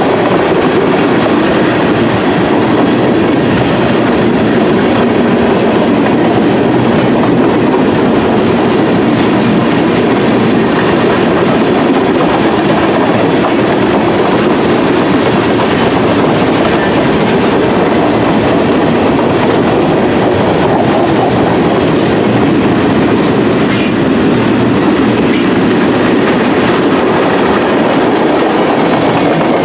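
CSX freight train rolling past close by: a steady, loud rumble of steel wheels on rail with clickety-clack over the joints. A few brief sharp clicks come near the end.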